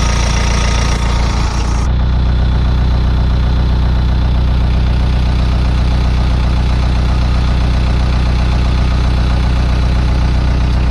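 Isuzu 4BD1T four-cylinder direct-injection turbo diesel idling steadily while warming up after a cold start. About two seconds in the higher hiss drops away suddenly while the engine's steady low running carries on.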